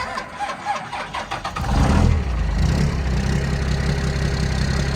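Dodge 5.9-litre Cummins 12-valve inline-six diesel cold-starting at 28 degrees without a block heater: the starter cranks for about a second and a half, the engine catches and flares up about two seconds in, then settles into a steady idle.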